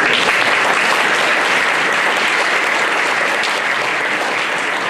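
Audience applauding steadily, a dense patter of clapping hands that begins abruptly and eases off slightly over the seconds.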